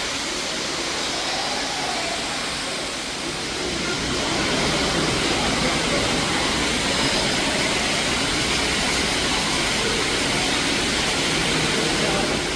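Steady rush of falling water from a waterfall, getting louder about four seconds in.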